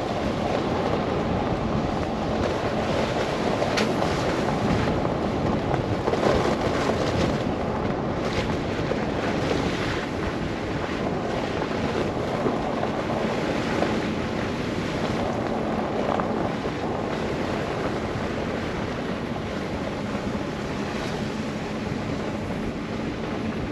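Steady rush of wind and road noise from a car driving through a snow blizzard, with a faint low steady hum and a few brief crackles in the first half.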